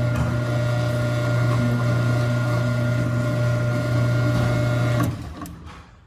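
Ceiling-mounted garage door opener motor running with a steady hum and whine, the quieter of a pair of openers, then cutting off about five seconds in as the door stops.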